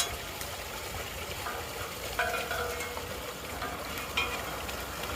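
Water draining through a storm drain, a steady crackly trickle with a few sharp clicks.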